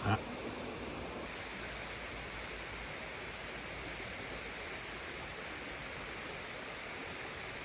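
A steady, even rushing noise, with one short knock right at the start.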